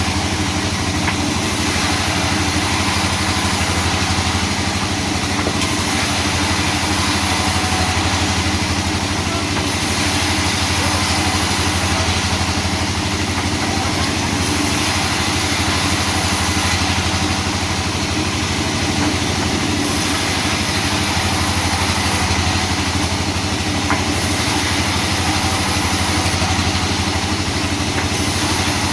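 Sawmill machinery running steadily, with a constant engine-like hum.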